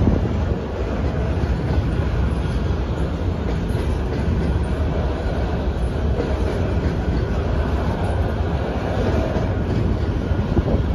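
Freight train of covered grain hopper cars rolling past at a crossing: a steady rumble with the clatter of steel wheels on the rails.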